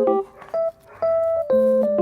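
Background music: electric piano playing short chords and single notes.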